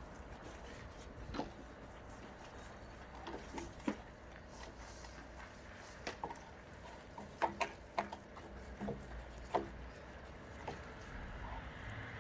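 Scattered light knocks and taps as gutters are hand-cleaned, irregular and busiest in the second half, over a faint low hum.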